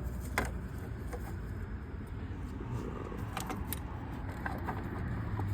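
A few sharp light clicks and knocks of plastic engine parts and hose fittings being handled and pulled loose, over a steady low background hum.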